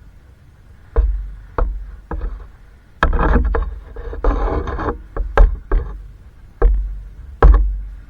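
A series of sharp knocks and heavy thumps, about eight in all, with a stretch of rough rustling noise in the middle; the loudest knocks come near the end.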